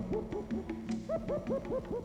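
Cartoon sound effect: a run of quick pitched blips, each swooping up and falling back, about five a second and fading toward the end, over the music score.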